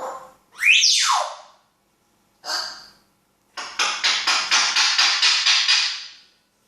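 African grey parrot vocalising: a whistle that swoops up and then falls, a short harsh call, then a rapid run of about a dozen repeated notes at roughly five a second.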